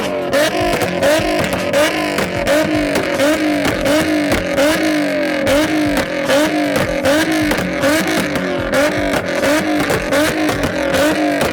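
A tuned car's engine revved hard over and over, its pitch rising and dropping about twice a second, with sharp exhaust pops and crackles all through.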